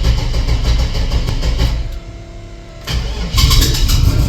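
Starter cranking a turbocharged LS V8 on a slightly low battery at its first start after a rebuild, with an even pulsing churn. The cranking stops about two seconds in, then starts again a second later and grows louder.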